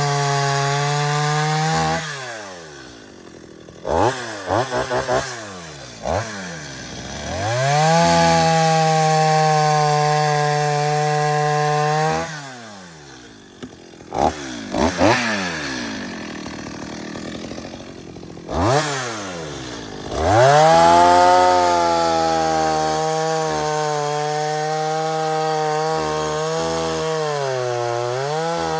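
Petrol chainsaw running, revved to full throttle in long stretches while cutting timber and dropping back to idle between cuts, with a few short throttle blips.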